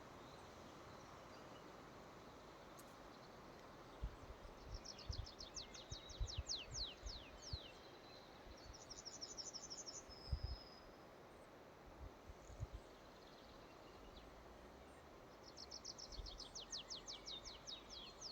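A songbird singing faintly over a steady forest hiss: a phrase of rapid, high, down-sliding notes, a short fast trill after it, and the phrase again near the end. Scattered low thumps sound underneath.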